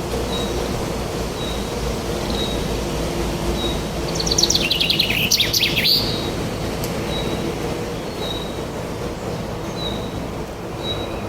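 Wild birds singing over a steady low rumble. One bird repeats a short high note about once a second, and a fast twittering song, the loudest sound, comes in briefly about four seconds in.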